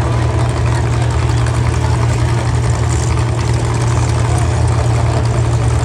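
Demolition derby cars' engines idling together, a steady low drone.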